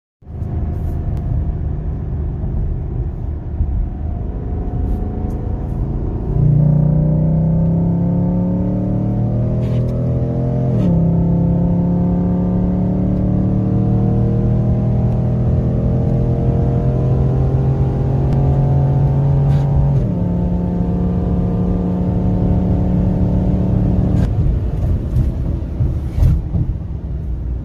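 Bone-stock Chevy SS's 6.2-litre LS3 V8, heard from inside the cabin, goes from steady cruising to full throttle about six seconds in. It climbs in pitch through two upshifts, then lifts off near the end of a 60 to 130 mph run.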